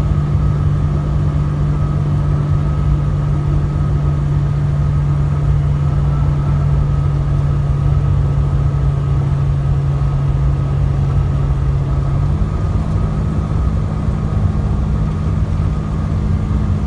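Heavy truck's diesel engine droning steadily inside the cab at highway speed, over road noise. The engine's pitch steps up slightly about twelve seconds in.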